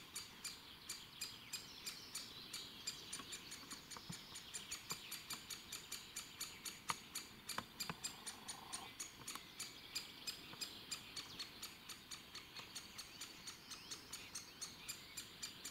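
Great spotted woodpecker nestling begging from its nest hollow: a continuous string of short, high squeaking calls, about three a second. The nestling is calling for food from its parents.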